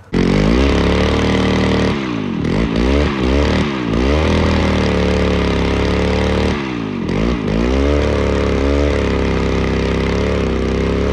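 Electric chainsaw sharpener's motor switched on and running steadily, its pitch dropping and recovering several times as it bogs under load grinding the cutters, in a quick run about two seconds in and again near the middle.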